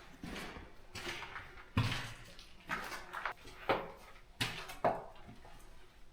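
Footsteps in a small room of an abandoned building: about eight irregular thuds and gritty scuffs, roughly one a second.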